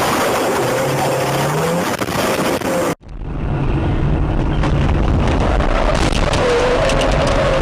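Car engine and road noise in a moving vehicle. It breaks off abruptly about three seconds in and resumes as a steady low engine rumble.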